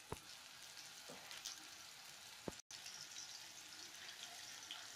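Breaded zucchini-and-chicken cutlets frying in hot vegetable oil in a frying pan: a faint, steady sizzle, with a couple of light clicks.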